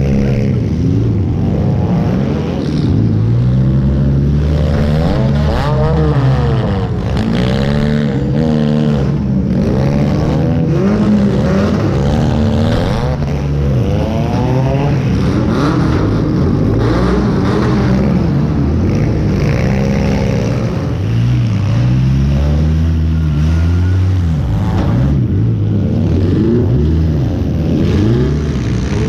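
Demolition derby car's four-cylinder engine revving up and easing off over and over as the car drives and manoeuvres, heard loud from the driver's seat.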